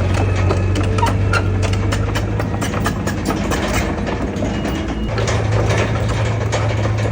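Heavy diesel engine of earthmoving machinery running steadily, with many small clicks and knocks over it. The engine note grows louder again about five seconds in.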